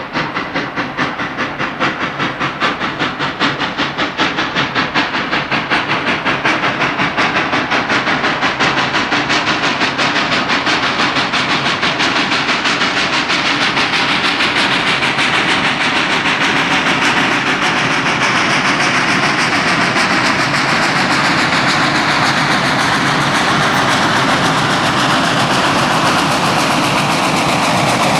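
Central Railroad of New Jersey 0-6-0 steam locomotive No. 113 working under steam. Its exhaust chuffs quicken as it picks up speed and run together into a continuous beat by about halfway. The sound grows steadily louder as it draws nearer.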